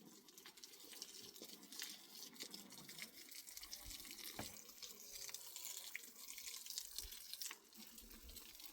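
Faint running, splashing water with scattered small drips and ticks.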